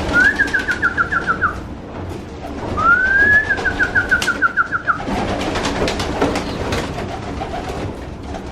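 Racing pigeons cooing and shuffling in a loft. Two high, quickly pulsing whistled calls sound over them, one at the start and a longer one that rises first, around the middle.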